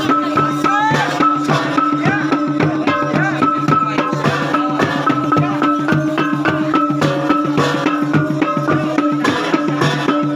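Traditional gung-gendang gong-and-drum ensemble music: fast, dense drum strokes over a steady held drone, with a melody moving in quick short notes above.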